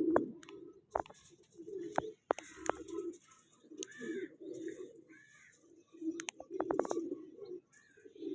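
Domestic pigeons cooing in low, repeated phrases, with a few higher squeaky calls in the middle and several sharp clicks in between.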